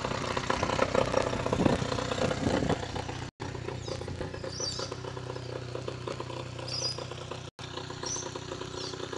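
15 HP Mariner outboard motor running, louder for the first three seconds or so and then idling steadily. The sound cuts out briefly twice.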